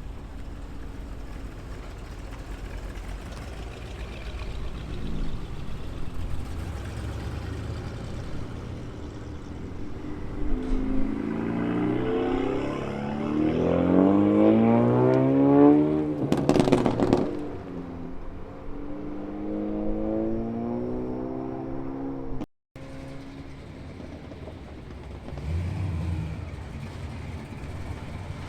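Muscle car exhaust rumbling at low revs, then one car accelerating hard: the exhaust note climbs for several seconds to a loud, raw burst about sixteen seconds in, then drops back in pitch as it eases off. A low rumble of engines follows.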